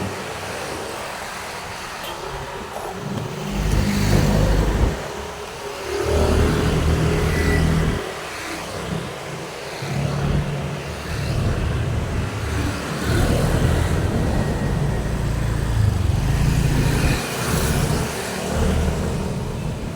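Road traffic on a main road: a steady flow of passing vehicles, their engines rising and fading one after another over continuous tyre and road noise. The loudest pass is about four seconds in.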